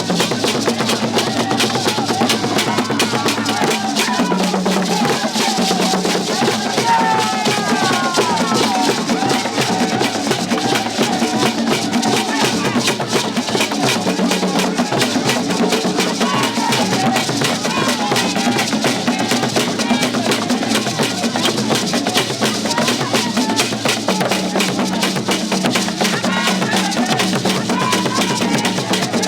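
Music driven by dense, fast drumming with a steady beat, with a few voices rising over it now and then.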